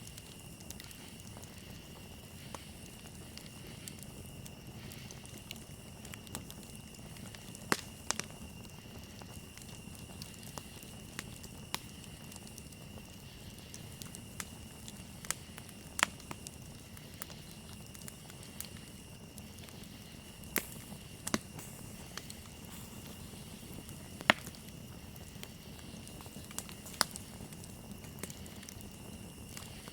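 Campfire crackling, with scattered sharp pops, the loudest about 8, 16 and 24 seconds in, over a steady high trill of crickets.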